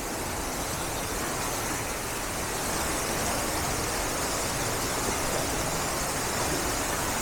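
Waterfall and rushing river water in heavy flow after rain, a steady full roar with no breaks.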